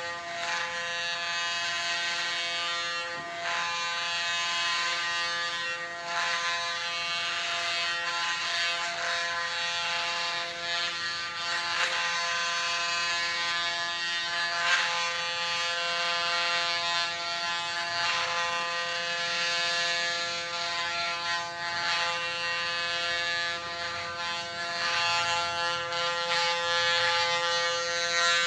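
Electric hair clippers set to 0.8 mm running with a steady buzz while being passed over the scalp to shave the head. Faint scratchy strokes come every second or two as the blade moves through hair.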